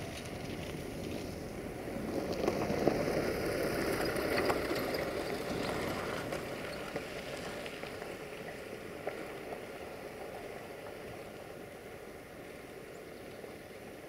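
Diesel-hauled passenger train running along the line: a steady rumble of engine and wheels with a few sharp clicks, swelling a few seconds in and then slowly fading as the train draws away.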